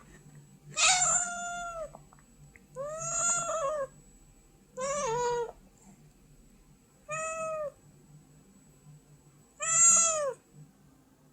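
Domestic cat meowing five times, roughly every two seconds, each meow a drawn-out call of about half a second to a second: a cat begging.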